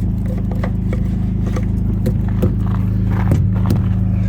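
Semi-truck diesel engine idling steadily, with scattered irregular knocks and clicks over it.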